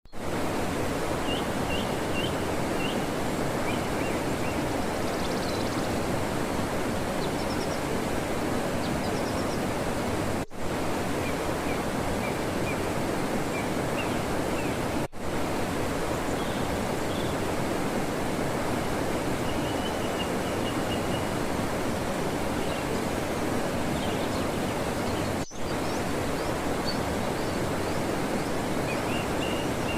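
Steady rush of flowing water, with faint short bird chirps over it. The sound cuts out for an instant three times.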